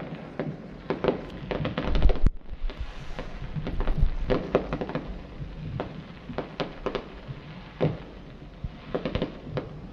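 Fireworks going off: a continuous string of bangs and crackling pops from aerial bursts, loudest about two seconds in.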